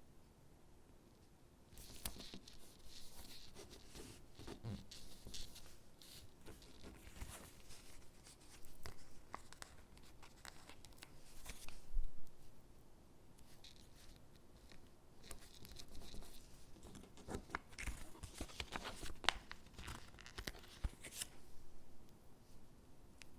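Stickers being peeled from their backing and pressed and rubbed onto paper gingerbread cutouts: soft peeling, scratching and paper rustling in short, irregular bursts, with a soft knock about halfway through.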